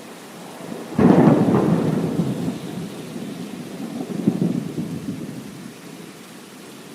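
A thunderclap over steady rain: a sudden loud crack about a second in, then a rolling rumble that swells again around the fourth second and dies away into the rain.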